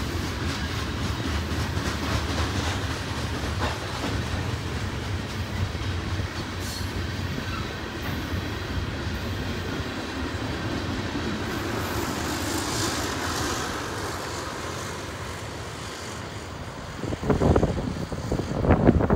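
The freight cars of a long mixed manifest train, mostly covered hoppers, rolling steadily past with the rumble and clatter of their wheels, fading slightly as the last cars go by. Near the end, wind gusts buffet the microphone.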